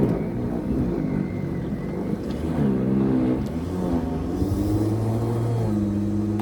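Lawn mower's small petrol engine running under load, its speed sagging and recovering several times as it works through the grass.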